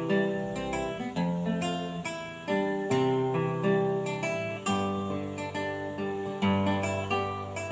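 Acoustic guitar playing an instrumental passage of a slow song, with plucked and strummed chords and a steady low bass line.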